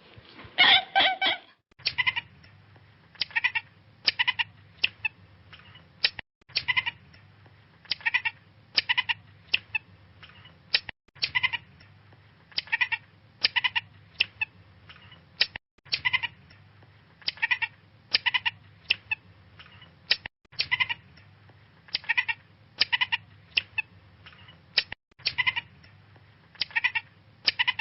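Short, quick animal calls, a few every second over a low steady hum. The same short stretch of calls repeats about five times, each time after a brief gap.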